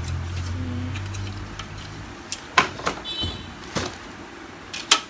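A low steady hum that stops about two seconds in, then several sharp clicks and knocks from printer parts being handled and fitted together.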